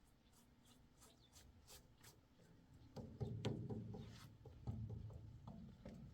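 Scattered small clicks, then louder rubbing and scraping strokes against a surface from about three seconds in.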